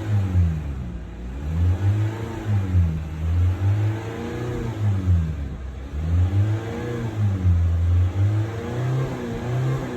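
2020 Honda Civic engine being revved over and over, its pitch climbing and falling back in a string of rev blips roughly every second or two.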